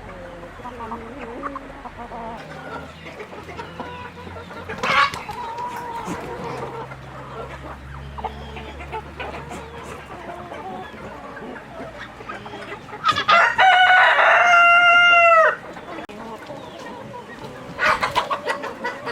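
Rooster crowing once, a long held call about two-thirds of the way through that drops in pitch at the end, over a background of hens clucking. There are short loud bursts of clucking about five seconds in and again near the end.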